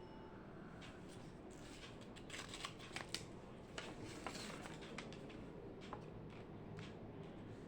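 Faint sounds of desk work: a cluster of small clicks and rustles, like paper and stationery being handled, about two to four seconds in, with scattered clicks later, over a steady low room hum.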